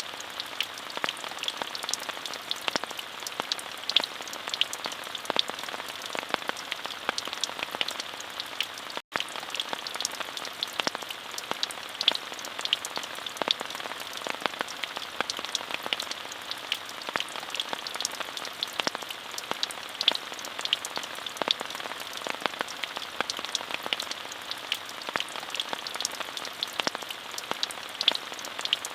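Steady rain falling, a soft even hiss dotted with many crisp, separate drop hits. The sound cuts out for a split second about nine seconds in, then carries on unchanged.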